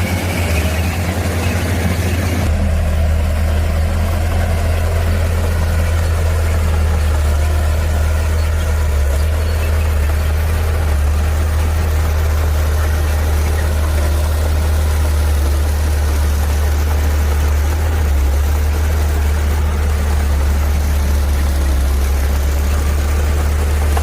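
Heavy diesel engine of a construction machine running steadily with a deep, constant hum. About two and a half seconds in, the higher part of the sound changes and settles.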